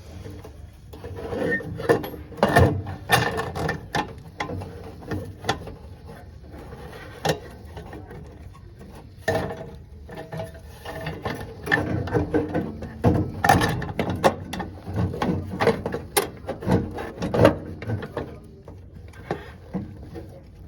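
Hand tools and parts clicking and knocking against a Rheem gas water heater's pilot assembly and fittings during the repair, in two spells of irregular sharp clicks.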